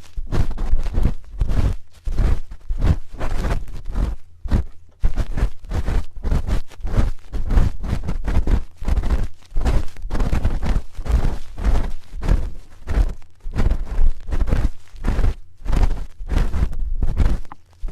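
Close-miked ASMR spoon ear-cleaning sounds: a spoon scraping and rubbing against the microphone's ear in quick, irregular strokes, with dull thuds.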